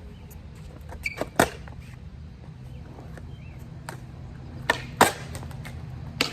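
Skateboard wheels rolling on concrete with a steady low rumble, broken by sharp clacks of the board hitting the ground about a second in, twice around five seconds in, and once at the end.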